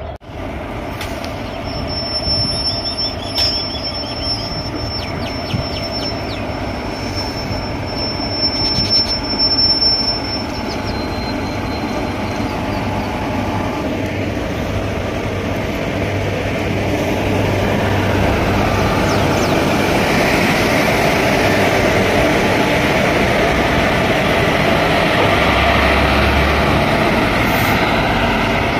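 Train running along the track with a steady rumble that grows louder over the second half. A high, thin, steady squeal, typical of wheels on rail, sounds for several seconds early on.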